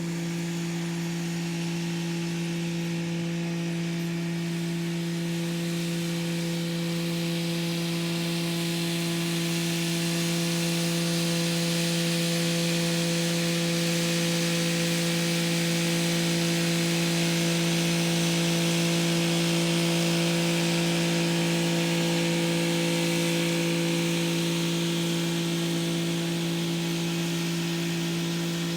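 Kubota SL35 tractor's diesel engine running at a steady pitch while the rotary tiller works the soil. A higher rushing noise swells through the middle and eases again near the end.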